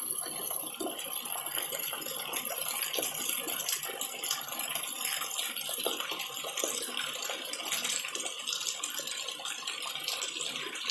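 Rain falling steadily, many separate drops pattering and dripping, over a constant high hiss.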